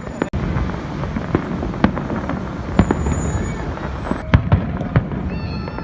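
Fireworks display: irregular sharp bangs over a continuous rumble of distant bursts, the loudest bang a little over four seconds in.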